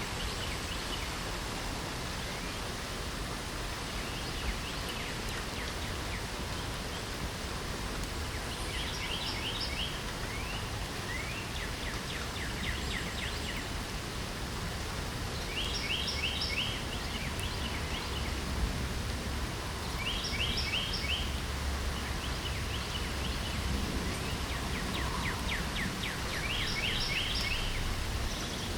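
Steady light rain, with a songbird singing a short phrase of quick high notes about five times.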